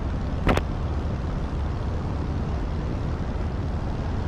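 Light aircraft engine and propeller droning steadily, heard inside the cockpit of a 100 hp Jodel D150 Mascaret in cruise. A brief double click about half a second in.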